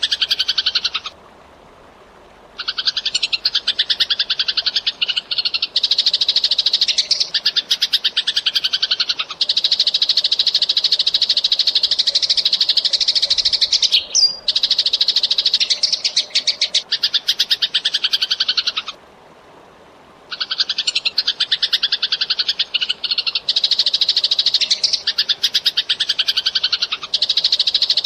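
Eurasian tree sparrow chirping in fast, dense runs of rapid chirps, with two short breaks, one near the start and one about two-thirds of the way through.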